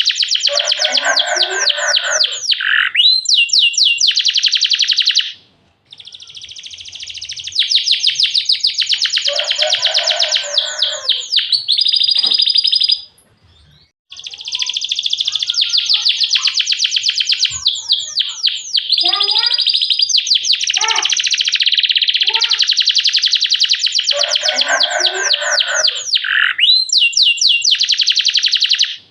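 Domestic canary singing long phrases of fast, tightly repeated rolls and trills, with short breaks about five and thirteen seconds in.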